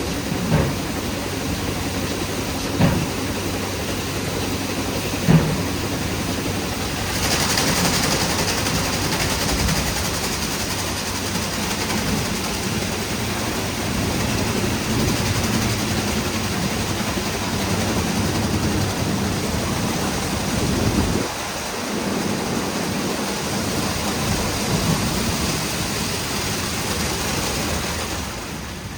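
WashTec SoftCare² Pro rollover car wash running its brush wash: rotating brushes and water spray working over the car, with a steady mechanical rumble. There are three knocks in the first few seconds, a spray hiss that strengthens after about seven seconds, and the low rumble falls away about two-thirds of the way through.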